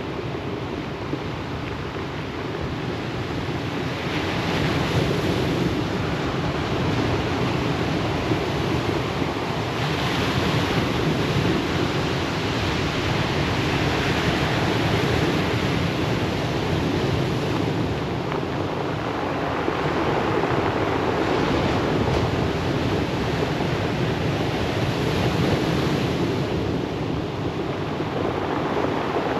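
Ocean surf breaking and washing on a pebble beach, a steady wash that swells and ebbs with each wave every several seconds.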